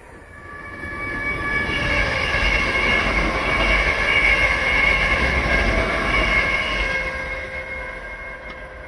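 A train passing through the station: a rumble that swells to a peak about halfway through and fades away, with steady high-pitched tones over it while it is loudest.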